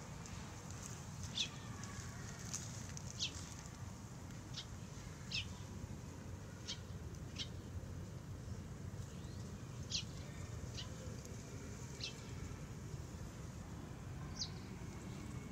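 Short, high chirps from a small bird, one every second or two, over a steady low rumble.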